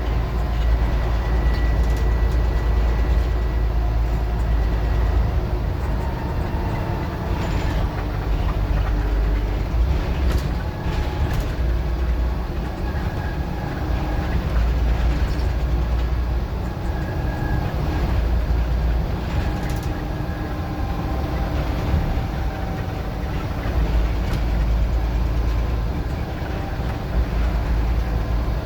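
Diesel engine of a Scania N94UD OmniDecka double-decker bus being worked hard. The low rumble swells and eases several times as the bus pulls away and changes pace.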